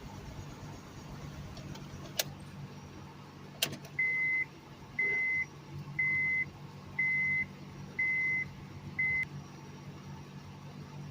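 A steady low hum, likely the 2004 Honda Civic's engine idling with a misfire on cylinder 2. Two sharp clicks come about two and three and a half seconds in, then six even electronic beeps, each about half a second long and about a second apart.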